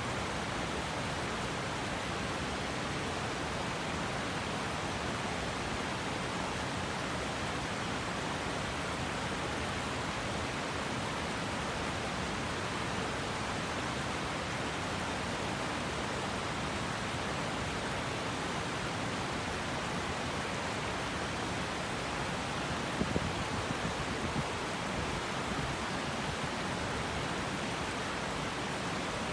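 River water rushing steadily, an even unbroken wash of sound. A few soft low bumps come about 23 seconds in.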